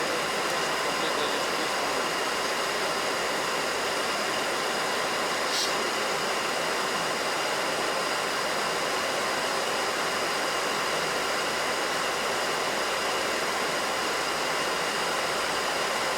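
Steady cockpit noise on a Boeing 737NG flight deck in flight on approach: an even rush of airflow and air conditioning with faint steady tones above it. A brief click sounds about five and a half seconds in.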